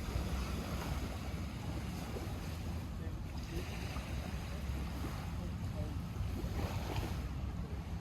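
Small lake waves washing against the shore, swelling now and then, over a steady low rumble of wind on the microphone.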